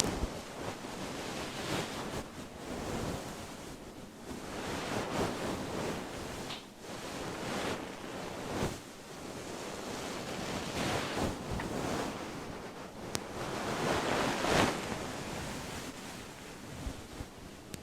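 A fluffy fur microphone windscreen being brushed and stroked right on the mic. It gives a rushing rustle that swells and fades with each stroke, about one stroke every second or two.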